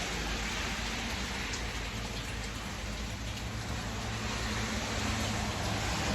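Steady rain falling, a constant hiss with a few faint drips, over a low steady hum.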